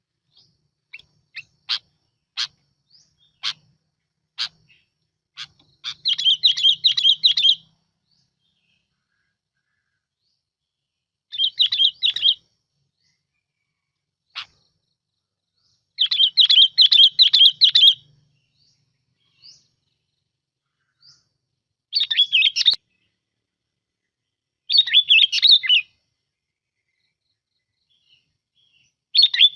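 Sooty-headed bulbul singing a decoy song: a few short sharp call notes, then repeated bursts of fast, bubbly warbling phrases, each a second or two long, with silent pauses between them.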